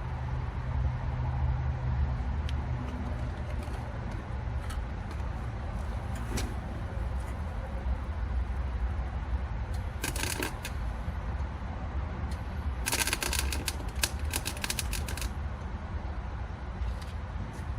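Welding arc crackling in two bursts, a short one about ten seconds in and a longer one of about two seconds a little later, over a steady low hum.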